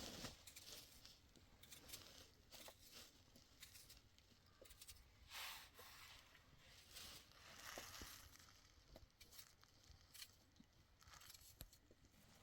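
Near silence: faint rustling and a few small scattered clicks.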